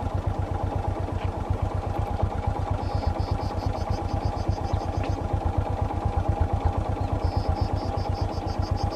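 An engine idling close by, a steady low throb that pulses evenly. A short run of quick high-pitched chirps comes about three seconds in, and a longer run near the end.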